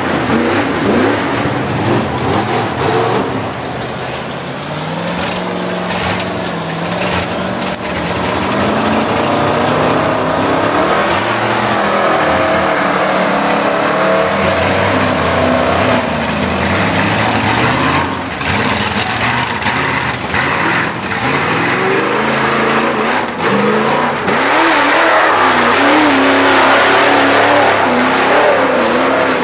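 A 4x4 mud truck's engine revving hard and unevenly, its pitch climbing and dropping again and again as the truck works through the mud pit, with a few sharp cracks in the first third.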